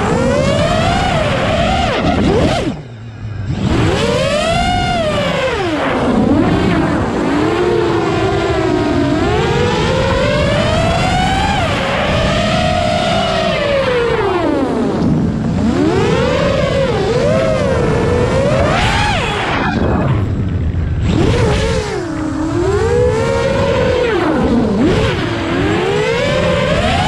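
An engine whose pitch keeps rising and falling, revving up and easing off over and over, with brief dips about 3 seconds in and again around 20 seconds.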